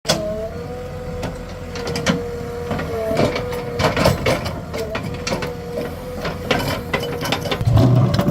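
A JCB 3DX backhoe loader at work: a steady mechanical whine holding one pitch, which jumps up briefly now and then, with irregular knocks and clanks throughout and a heavier low rumble near the end.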